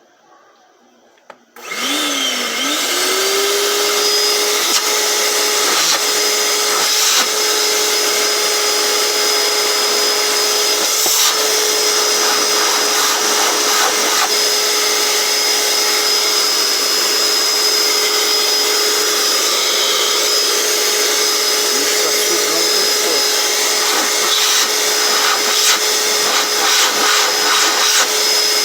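Electrolux Flex S vacuum cleaner, fitted with a new motor, switched on with a click about a second and a half in. The motor spins up over about a second to a loud, steady whine and runs evenly, without the strange noise it had before the motor swap.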